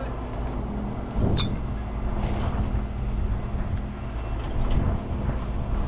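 Heavy tow truck's diesel engine running steadily. A few short hissing and clanking noises sound over it; the loudest comes just after a second in.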